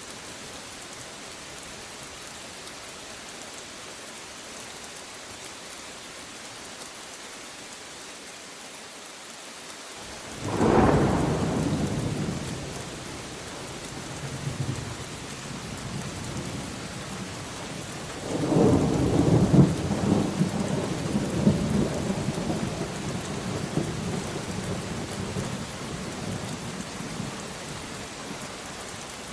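Steady rain falling, with two peals of thunder: a sudden clap about a third of the way in that fades over a couple of seconds, then a longer roll of thunder past the middle that slowly dies away.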